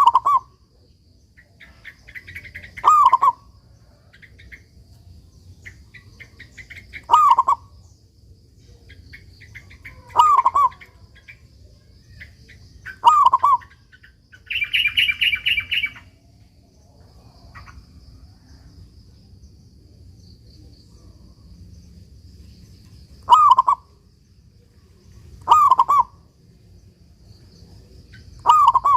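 Local zebra dove (perkutut) singing: short cooing phrases repeated every few seconds, with a longer gap in the middle. Softer chirps sound between the phrases, a faint steady high trill runs throughout, and one longer buzzy call comes about halfway through.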